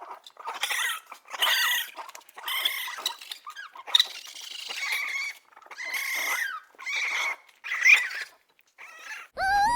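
An animal making about a dozen short, high-pitched calls in quick succession, each bending up and down in pitch.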